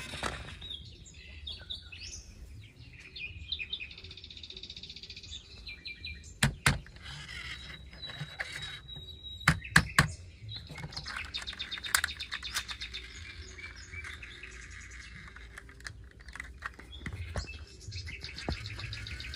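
Small birds chirping and twittering, broken by a few sharp knocks: a pair about six seconds in and a louder cluster near the ten-second mark.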